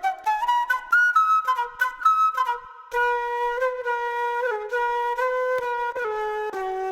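Music: a solo flute-like melody, some quick short notes about a second in, then longer held notes, played as the test signal for a tape saturation unit.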